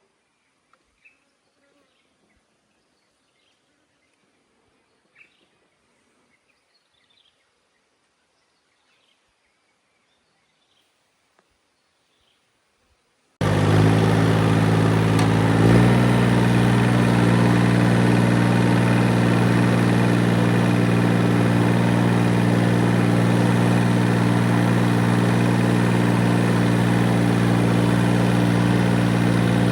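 Near silence with a few faint bird chirps, then about thirteen seconds in a loud engine cuts in abruptly and runs steadily at a constant speed.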